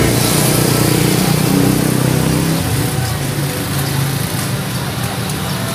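Motorcycle engine of a tricycle (motorcycle with sidecar) running steadily, with road noise around it.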